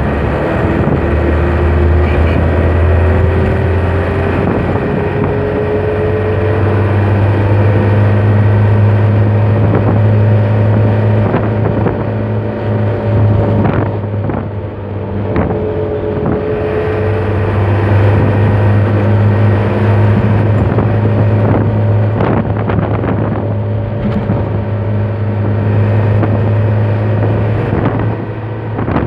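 Truck engine running steadily under way with a strong low drone, rising slowly in pitch twice as it pulls up in speed, with a few knocks and rattles. The engine is being run in after an overhaul.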